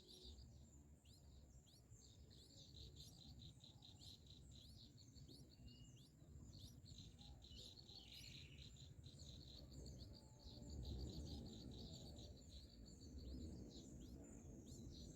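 Faint, rapid high chirping of streak-eared bulbul nestlings begging for food: many short calls, some sweeping upward. A steady high insect drone and a low rumble run underneath.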